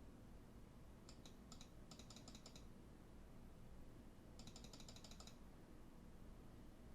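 Faint typing on a computer keyboard: a few separate keystrokes about a second in, then two short rapid runs of keystrokes, over a low steady room hum.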